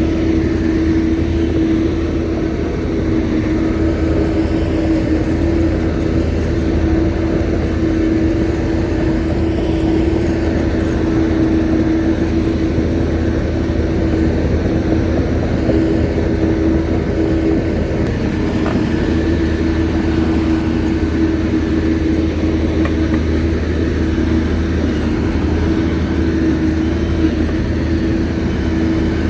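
Shantui bulldozer's diesel engine running steadily, a low drone with a steady higher whine on top.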